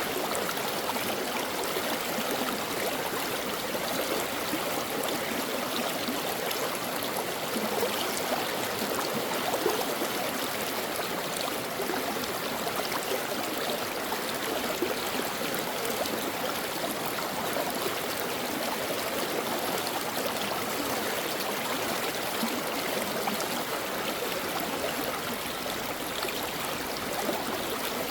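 Stream water running over rocks: a steady rushing and babbling flow with small gurgles throughout.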